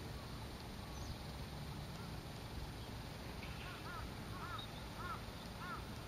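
A bird repeating short chirping calls, about one and a half a second, beginning a little past halfway, over a steady low rumble of background noise.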